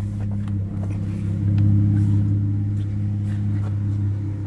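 Chrysler 300's engine idling steadily, a little louder for about a second near the middle, with a sharp thump at the end.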